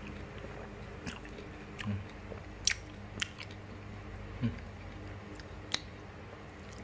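A person chewing food close to the microphone, with a few sharp clicks and crackles scattered through it.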